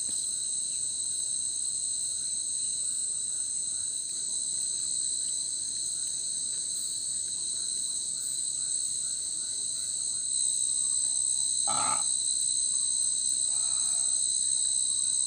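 Steady chorus of night insects, high and unbroken, with a brief sharp sound about twelve seconds in.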